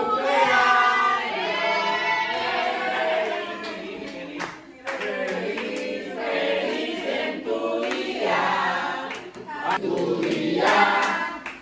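A group of people singing together unaccompanied, several voices at once, with a short break about halfway through.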